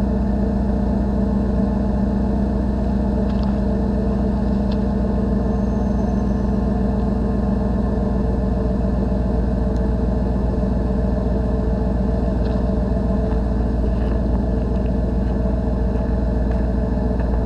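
1991 Chevy pickup engine idling steadily, warming up after a cold start in 10-degree weather.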